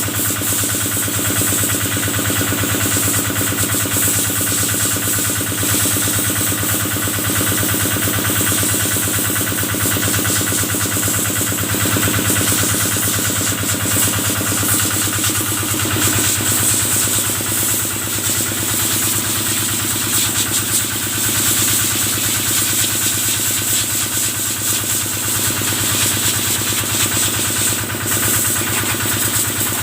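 Kubota engine running steadily at a constant speed, driving the water pump of a sprayer.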